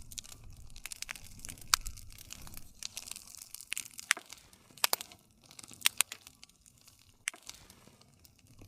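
Campfire crackling: irregular sharp pops and snaps from burning wood over a soft low rumble of the flames, with a handful of louder snaps scattered through the middle.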